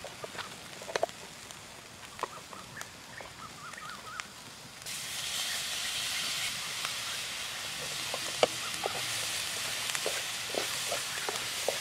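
Rat meat stir-fried with peppercorns and chilies, sizzling in a wok over a wood fire, with scattered crackling pops throughout. About five seconds in, a louder steady sizzling hiss comes in suddenly and holds. A few short chirps sound in the first few seconds.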